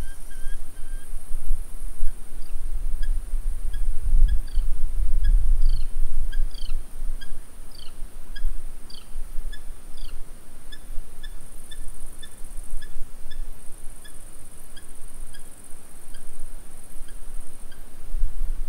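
A bird gives a series of short, sharp, repeated calls, about two a second, some of them falling in pitch, and the calls thin out towards the end; the uploader takes the bird for a Eurasian hobby. Underneath runs a steady high hiss, with a low rumble around four to six seconds in.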